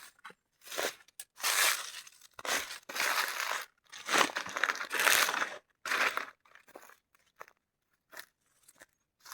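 Crunching and crinkling in irregular bursts, each up to about a second and a half long, separated by short silences; the bursts become shorter and sparser in the last few seconds.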